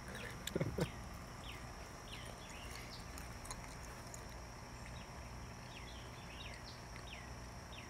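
Small birds chirping in short, falling notes that repeat every second or so. Near the start there are a few soft clicks and a brief low sound.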